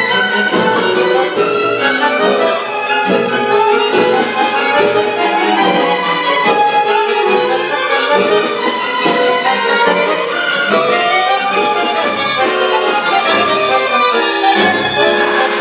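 Accordion and chamber orchestra playing a concerto, with violins prominent in a busy passage of quickly moving notes.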